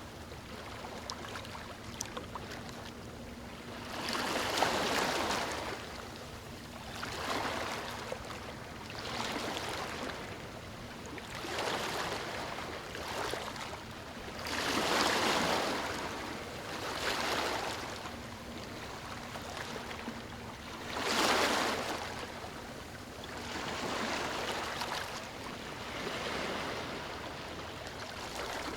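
Ocean waves breaking and washing up a beach, a surge of surf swelling and fading every two to three seconds, three of them noticeably louder than the rest.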